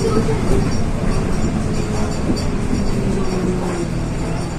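Cabin noise of a LiAZ 6213 articulated city bus under way: diesel engine and drivetrain running, with a whine that slowly drops in pitch.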